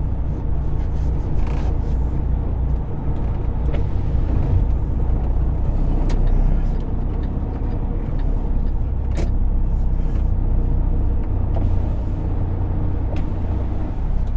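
Semi truck's diesel engine running steadily on the move, a continuous low drone, with a few sharp clicks or rattles along the way.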